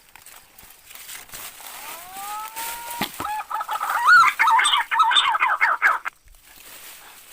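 A bird calling: a rising whistled note, then a loud, rapidly warbling call that stops abruptly after about three seconds, with a sharp click just before it.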